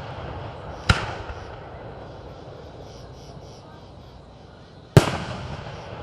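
Aerial fireworks shells bursting: two sharp, loud booms about four seconds apart, each trailing off in echo.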